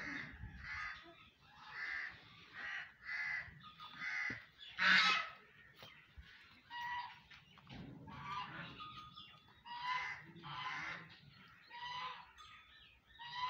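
Birds calling over and over with short, harsh calls, about one a second at an uneven pace. The loudest call comes about five seconds in.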